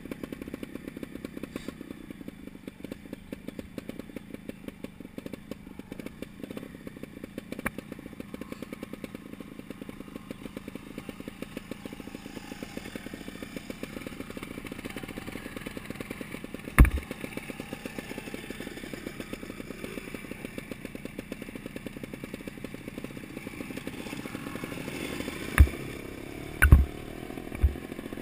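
Montesa trial motorcycle's engine idling with a fast, even putter, with a sharp knock about halfway through and a few more near the end.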